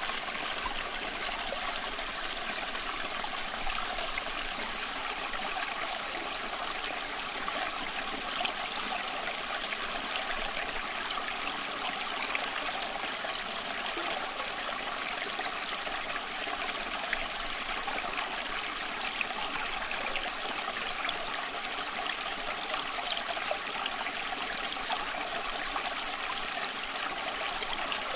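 Small stream flowing steadily, a continuous rush of water over stones with small trickles and splashes.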